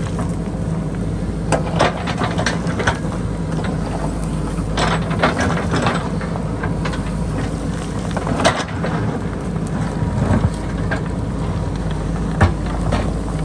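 JCB backhoe loader's diesel engine running steadily under load, with irregular clanks and scrapes of the bucket working against rock and boulders.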